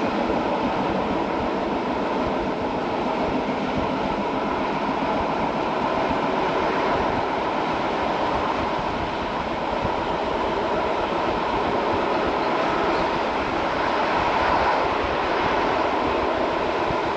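Golden Pass Line metre-gauge train running along the track: a steady, even running noise with a faint steady tone in it, without distinct wheel clicks.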